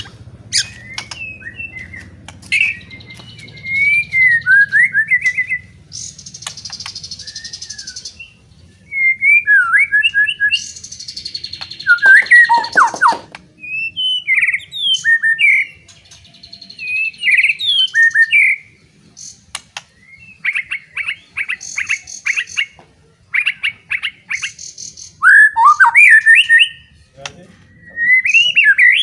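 White-rumped shama (murai batu) in loud, full song. Phrase follows phrase of sliding whistles and sharp chirps, broken by harsh rattling trills, with short pauses between bursts.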